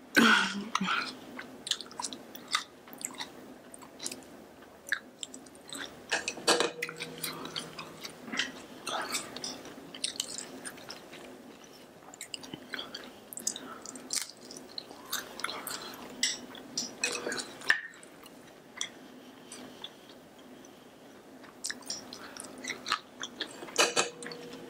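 A person chewing food close to the microphone: wet mouth clicks and smacks at irregular intervals, a few of them louder.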